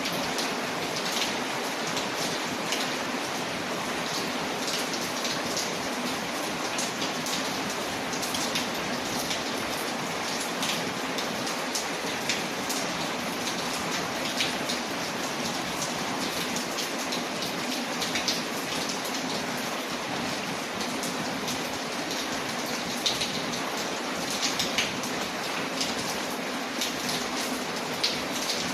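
Steady rain with scattered sharp crackles, from an ambience mix of rain on a window and a crackling fireplace.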